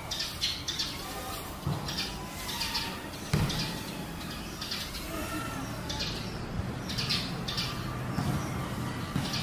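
Birds calling and chirping in short repeated bursts, with a few warbling notes, over a low steady background rumble.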